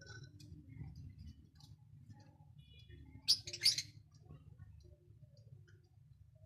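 Lovebirds chirping faintly, with two loud, shrill calls in quick succession about three and a half seconds in, over a steady low hum.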